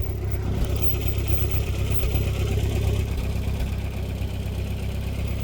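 Tractor engine idling with a steady low hum.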